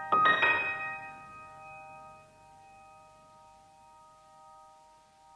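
Background piano music: a last chord struck just after the start, its notes ringing on and slowly fading away.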